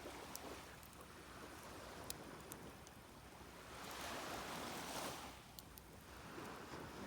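Sea waves washing onto a sandy beach, one wave swelling up and falling away a little after halfway. Faint sharp clicks are scattered through it.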